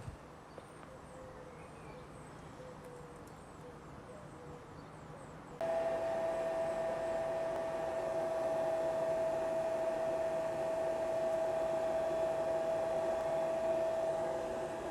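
Electric air blower feeding a backyard aluminium-melting furnace switches on about five and a half seconds in and then runs steadily, a rushing air noise with a steady whine, forcing air into the fuel to get the fire going.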